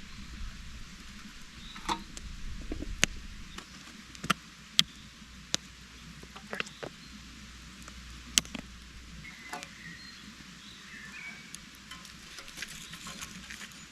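Campfire embers crackling, with a handful of sharp pops about a second apart in the middle.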